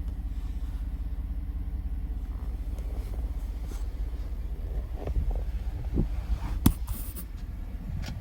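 A truck's V8 engine running steadily with a low rumble, with a couple of sharp clicks near the end.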